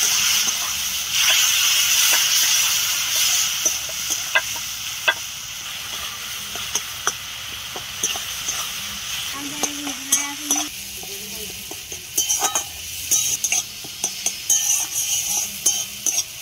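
Spiced tomato-and-cashew masala sizzling in oil in a metal kadai while a metal spatula stirs and scrapes it, with scattered sharp clinks against the pan. The sizzle is strongest in the first few seconds, as the masala is fried down (kashano) for aloo dum.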